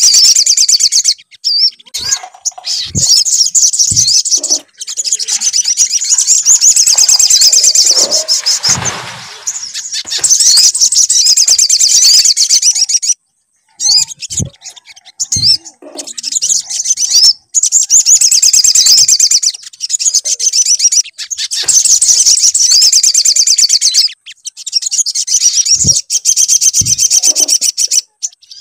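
Sunbird (sogon) song: long runs of high, rapid trilled chattering lasting several seconds each, with short breaks between them. A few brief low thumps sound along the way.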